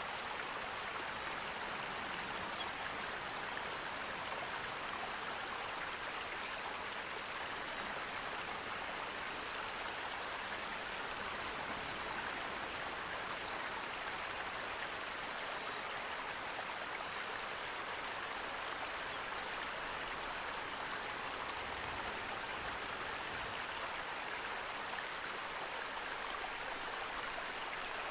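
Running water rushing steadily, with no break or change.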